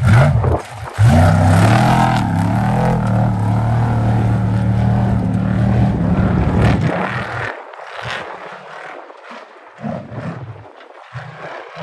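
Off-road race vehicle's engine running under load over a steady rushing noise, its note wavering a little; about seven seconds in the engine note drops away, leaving broken bursts of noise.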